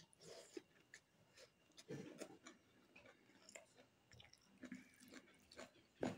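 Faint close-up eating sounds of a person chewing a mouthful of rice and curry eaten by hand: soft wet mouth smacks and small clicks at uneven intervals, with a louder click near the end.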